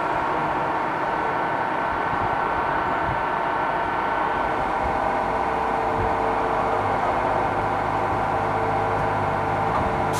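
Mercedes-Benz E55 AMG's M113 V8 with a custom x-pipe, resonator-delete exhaust, running at a steady speed with no revving. A steady drone, with a deeper hum joining about six seconds in.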